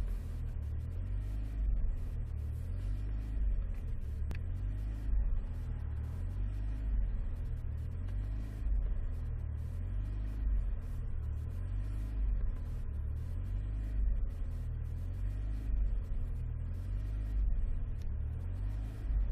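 Alfa Romeo 156 engine and road rumble heard from inside the cabin: a steady low rumble that swells and eases about every two seconds.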